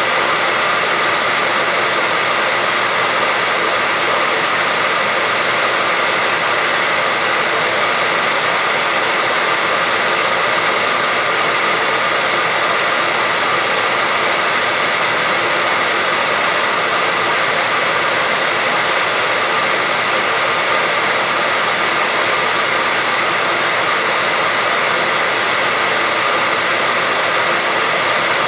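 Hair dryer running continuously: a steady, even rush of air over its motor's whine, with faint held tones around the middle and upper pitches and no change in level.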